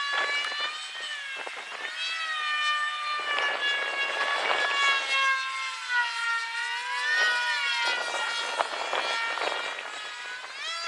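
Electric motor and propeller of a radio-controlled model airplane whining in flight, its pitch sliding up and down with throttle and passes. Gusts of rushing noise come and go over it.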